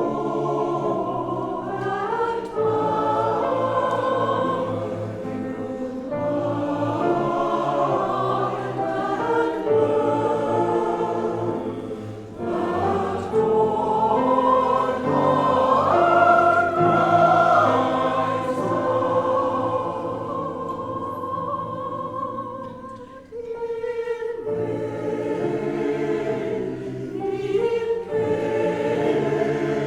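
Choir singing an anthem, many voices in harmony holding long notes, with brief breaks between phrases about twelve and twenty-three seconds in.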